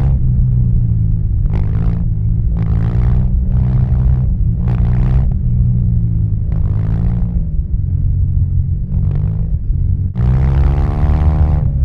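Suzuki Burgman 650's parallel-twin engine running loud through a Yoshimura R77 carbon full-system exhaust while riding. It has a steady deep rumble, and its note swells and eases every second or so, most strongly near the end.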